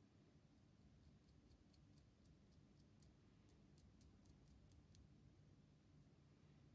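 Near silence with a run of faint, sharp, high ticks, about four a second, starting about a second in and stopping about two seconds before the end.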